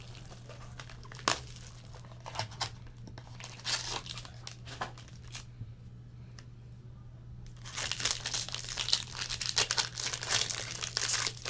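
Trading-card pack wrapper being handled and torn open, crinkling with scattered sharp crackles. It goes quiet for a couple of seconds in the middle, then crinkles steadily near the end.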